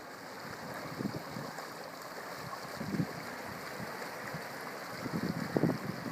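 Dogs splashing through shallow floodwater, with a steady rush of wind on the microphone. There are splashes about a second in, again around three seconds, and a cluster of them near the end.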